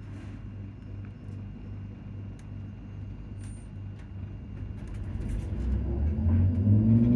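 Low rumble inside a ScotRail Class 334 electric multiple unit. About five seconds in it grows louder, with a rising low motor whine as the train gathers speed.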